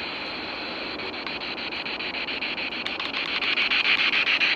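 Radio static hissing with rapid, even clicks, getting louder near the end: a ghost-hunting spirit box sweeping through radio stations.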